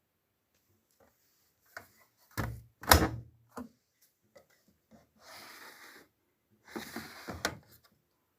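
Knocks and sliding noises from handling a Luxor WM 1042 washing machine: two heavy thumps a couple of seconds in, the second the loudest, then a click, then two spells of rustling, sliding noise.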